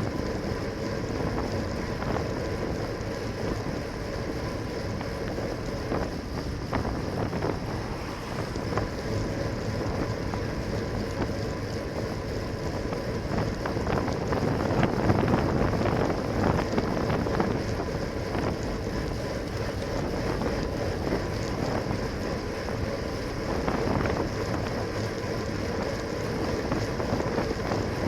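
Wind buffeting the microphone of a bicycle-mounted camera while riding, over steady road noise; it grows louder for a few seconds about halfway through.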